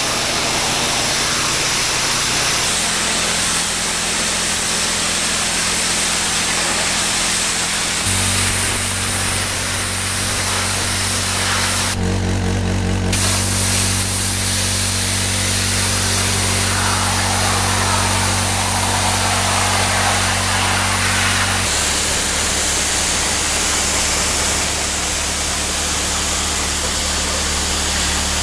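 Pressure washer jet spraying hard onto paving, a loud steady hiss over the machine's steady hum, changing abruptly several times as the shots cut.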